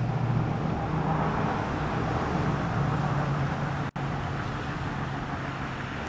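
Steady motor-vehicle noise with a low hum, cutting out for an instant about four seconds in.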